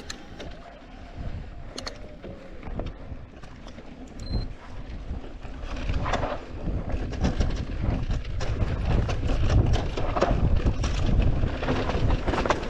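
Electric mountain bike ride heard from on the bike: wind buffeting the microphone and knobby tyres rumbling over a dirt trail, with scattered clicks and rattles from the bike. It grows louder about halfway through as the bike picks up speed on the descent.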